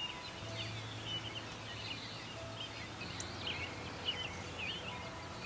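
Several small birds chirping and twittering in a busy, continuous chorus of short high calls, with a faint low hum underneath during the first half.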